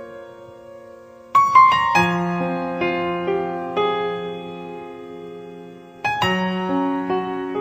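Background piano music: slow, sustained chords and single notes, with a quiet stretch at the start and fresh chords struck about a second and a half in and again about six seconds in.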